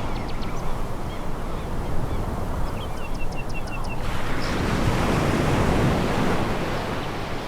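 Sea waves washing onto a pebble beach, a steady surf that swells again about four seconds in. A short run of faint high chirps sounds about three seconds in.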